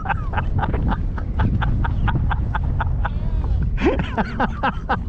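A bird calling a rapid series of short, sharp chirps, about five a second, then a few slurred calls near the end, over wind rumbling on the microphone.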